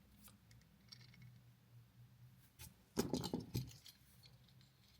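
Light clicks and clatter from handling an electrical outlet and its wires, in a short cluster about three seconds in, with faint ticks around it.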